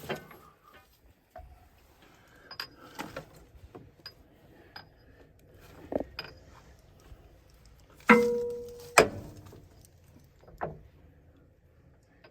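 Scattered metallic clinks and knocks of metal parts and tools being handled, with two louder clanks about eight and nine seconds in that ring briefly.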